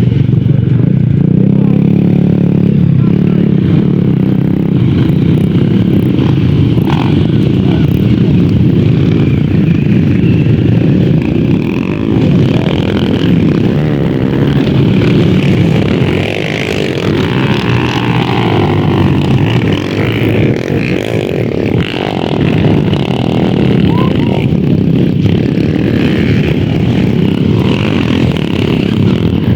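Motocross dirt bike engines running loud and continuously, with some revving.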